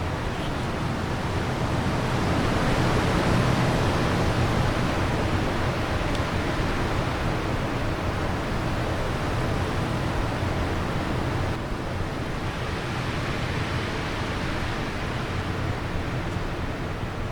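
Wind blowing steadily in a gust that swells a few seconds in, then eases off.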